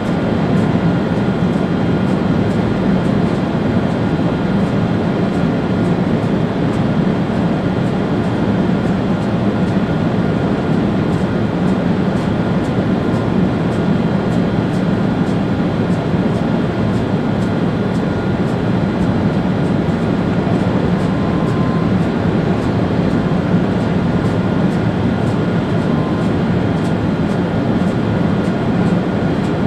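Steady running noise of a Railjet high-speed train heard from the driver's cab: an even rumble of wheels on rails with a faint steady whine above it.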